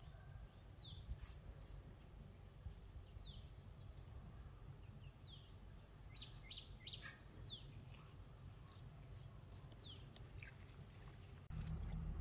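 A bird calling again and again: a short, high chirp that falls in pitch, about once every two seconds, over a faint low rumble. A few quick clicks come about six seconds in.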